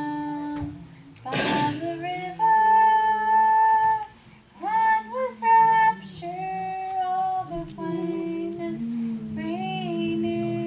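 A solo voice singing a slow gospel song in long held, gliding notes, with faint guitar accompaniment. A brief noisy burst comes about a second and a half in.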